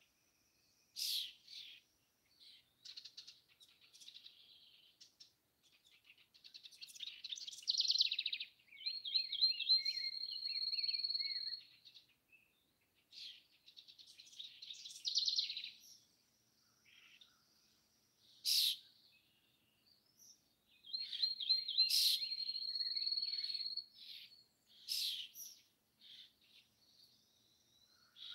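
Songbirds singing and calling, with many separate high chirps and songs. Twice, a bird sings a run of quick repeated notes that ends in a long, steady, high whistle, and short sharp chip notes come now and then between the songs.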